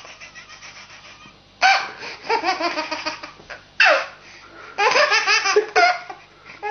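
A baby laughing in fits: rapid bursts of high laughter beginning about one and a half seconds in, with short breaks for breath between them.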